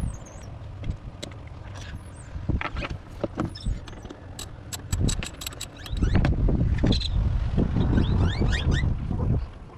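Socket wrench ratcheting in quick clicks as the 10 mm throttle body bolts are undone, with knocks and low rumbling from handling the tools. Birds chirp in the background.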